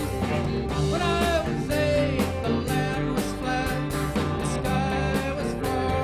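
A live rock band playing, with guitars over a steady drum beat and a lead line that slides in pitch about a second in.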